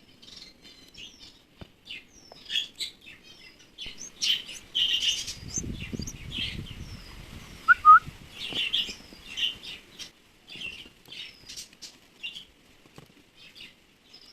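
Nestling birds giving many short, high cheeps while being hand-fed: hungry begging calls. About midway there is a soft rustling flutter, and about eight seconds in come two short, lower squeaks close together, the loudest sounds.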